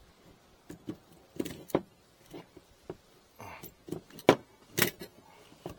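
Irregular clicks and knocks of hand tools and hive-frame parts being handled, about a dozen in all; the two loudest come a little after four seconds and near five seconds.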